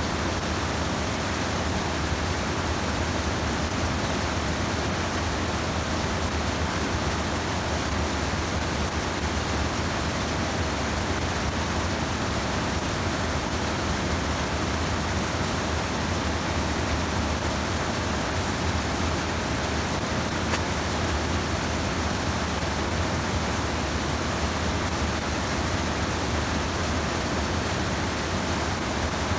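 Steady rush of stream water pouring over a small sabo dam weir, an even noise that does not change.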